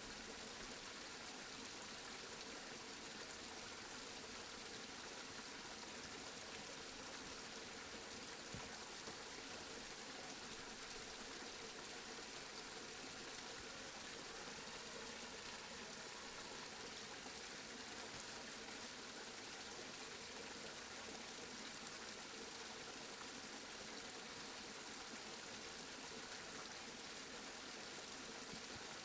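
Steady rain: an even, continuous hiss of falling rain with no changes.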